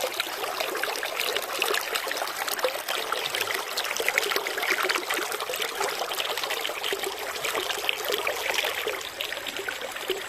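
River water flowing steadily, a continuous trickling rush.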